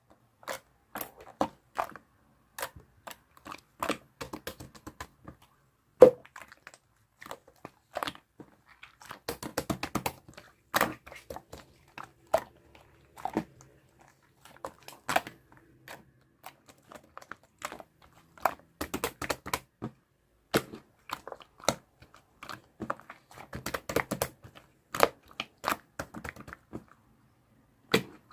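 Slime being squeezed and pressed by hand, giving irregular clicks, crackles and small pops in clusters, with one sharp pop about six seconds in.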